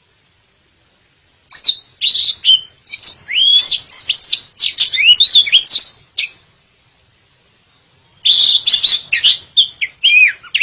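Oriental magpie-robin singing: two bursts of rapid, varied whistles and slurred notes, the first starting about a second and a half in and lasting about four seconds, the second near the end.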